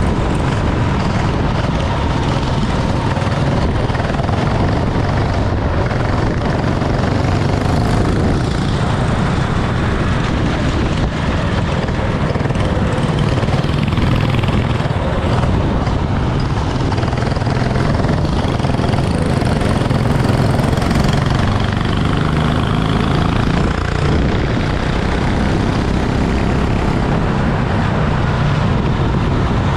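Racing kart engine running steadily under a constant rushing noise.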